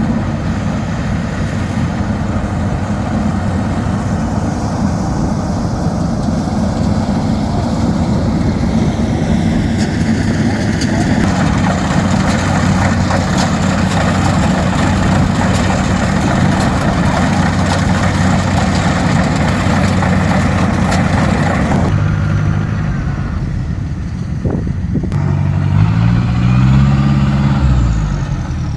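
Loud engines of rice-harvest machinery running, a steady low drone under a dense mechanical rush. About 22 seconds in the rush drops away, and near the end an engine revs up and back down.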